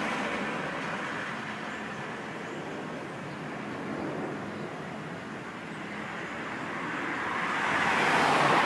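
Road traffic: a passing vehicle fades away at the start, and another approaches and swells loudest near the end.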